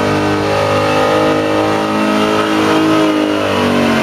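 Big-block Ford V8 pickup engine at full throttle under heavy load while pulling a sled, its pitch climbing slowly and then falling back near the end.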